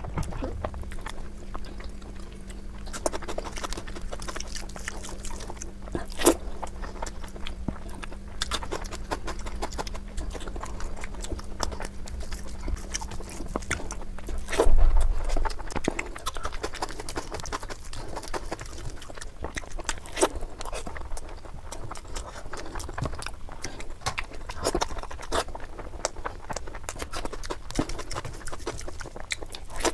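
Close-up eating sounds of a person eating curry: chewing with scattered crunches and wet mouth clicks. A faint steady hum stops about halfway through.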